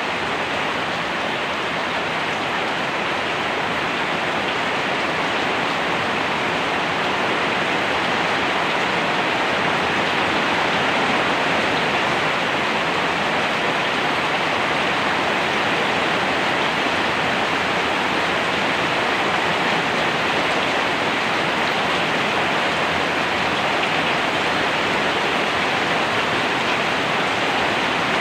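Steady heavy rain, an even rushing hiss with no distinct drops, growing a little louder about eight seconds in.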